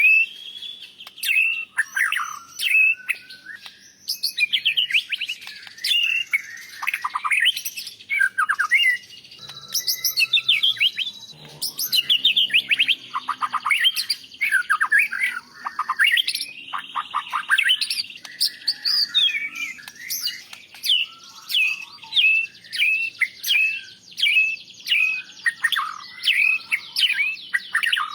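White-rumped shama singing a long, varied song of quick whistled phrases, rising and falling sweeps and trills, with hardly a pause.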